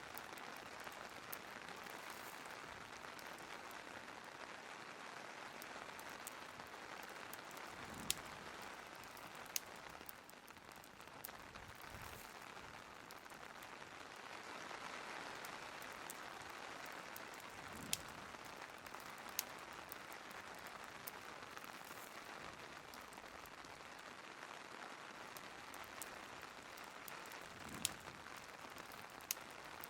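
Steady rain with the sharp, scattered pops and crackles of a wood fire burning in a fireplace.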